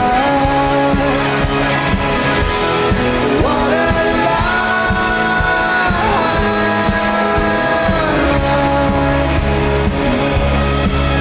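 Rock band playing live, with drums and long held notes that slide between pitches. A heavy bass comes in about eight seconds in.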